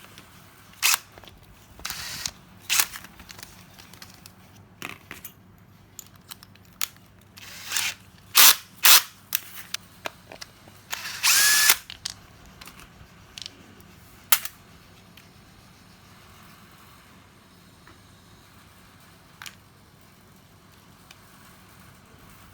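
A power drill runs in a series of short bursts, each a fraction of a second long; the longest comes near the middle, with the motor's whine bending in pitch. Small clicks and handling sounds fall between the bursts, and the last few seconds are quiet apart from a single click.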